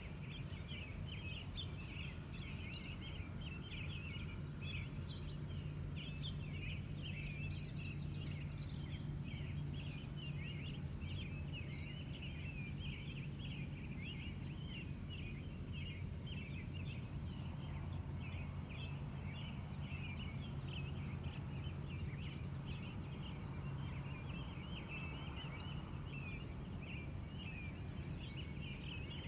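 Pre-dawn chorus of wild birds: many short chirps overlapping, with a brief higher flurry about seven seconds in, over a steady pulsing insect trill like crickets and a low steady hum.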